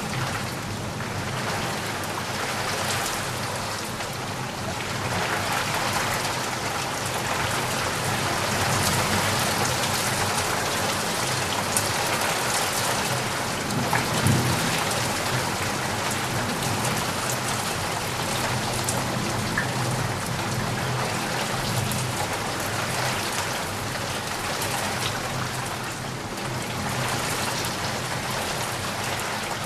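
Heavy rain falling steadily, a dense even hiss, with a brief low thump about halfway through.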